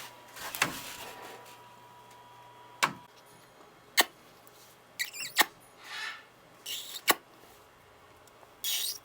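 A few sharp clicks and knocks, a second or more apart, with short squeaky sounds in between. A brief squeaky smack just before the end fits a parrot making kissing noises.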